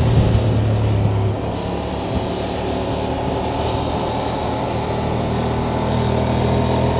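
Honda Transalp motorcycle engine running steadily, a low even drone whose tone shifts slightly about a second and a half in.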